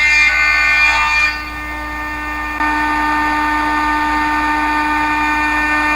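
Thickness planer running with a steady motor whine. It is loudest and noisiest in the first second or so while it cuts a rough-sawn board, drops a little, then steps up again about two and a half seconds in.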